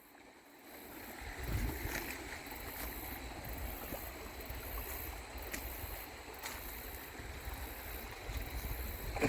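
Creek water running steadily, with a low rumble underneath, starting after a brief moment of near silence.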